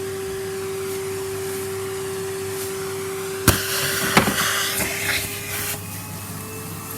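Numatic Henry vacuum cleaner running with a steady motor hum. About halfway through there is a sharp knock, then two seconds of rattling and hissing as wood shavings are sucked up the hose, and near the end the motor note rises slightly.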